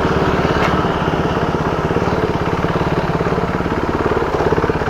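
KTM motorcycle's single-cylinder engine running steadily, a rapid even train of firing pulses at a constant pace.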